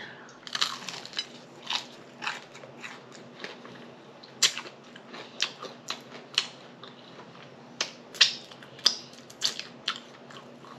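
Close-up mouth sounds of someone biting and chewing crunchy fried food: irregular crisp crackles and snaps, with wet chewing between them, the loudest snap about eight seconds in.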